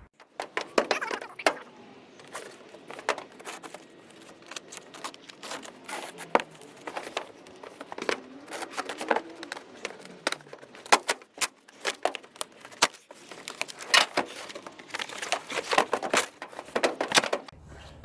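Packaging being unpacked, crinkling and tearing, with many irregular sharp clicks and light jangling clinks as parts are handled.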